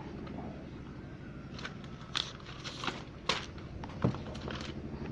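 Short handling clicks and rustles, about five of them scattered through the middle of the stretch, over a steady low background hum.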